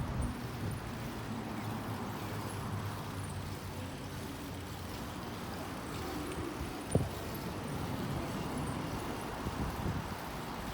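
Steady road traffic noise, with a single short knock about seven seconds in.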